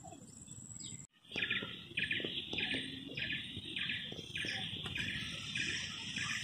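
Bird calling over and over in a steady rhythm, about one and a half to two calls a second, over outdoor background hum; the calls begin a little after a brief drop-out about a second in.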